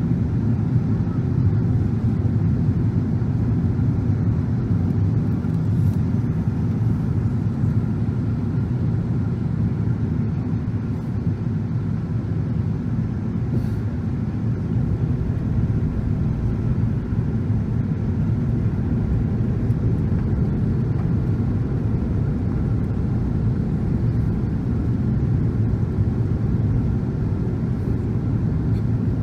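Steady cabin rumble of a Boeing 777-300 airliner on final approach: engine and airflow noise, even throughout with no distinct events.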